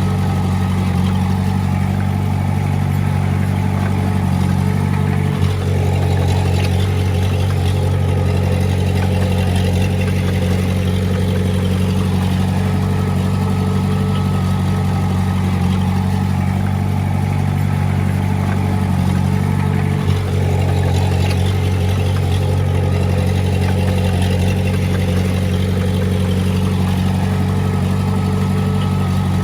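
Diesel engine of a Komatsu D20A bulldozer running steadily at an even speed, with two brief dips, one about five seconds in and one about twenty seconds in.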